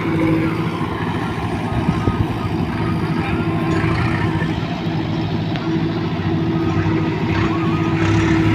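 Heavy diesel engine running at a steady speed, a constant drone with no revving.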